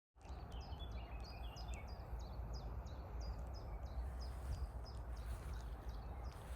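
A bird singing a long series of quick, high notes that each slide downward, about three a second, fading out near the end. A steady low rumble and hiss run underneath.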